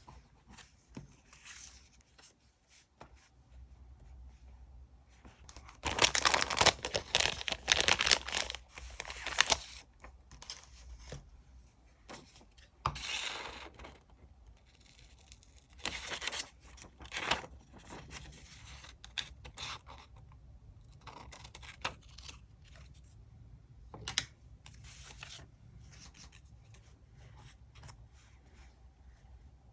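Diary-decorating paper work: paper, sticker sheets or tape being torn and rustled by hand. There is a loud, busy stretch about six to nine seconds in, then shorter bursts of tearing and handling, with softer fiddling in between.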